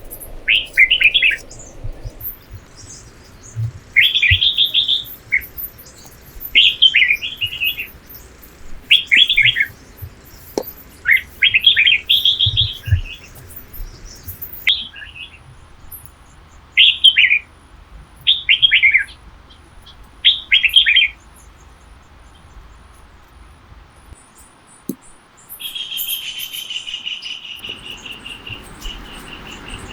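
A bird calling in short, chirping phrases, one every second or two, for most of the stretch before it falls quiet. Near the end, a steady, high insect trill starts up.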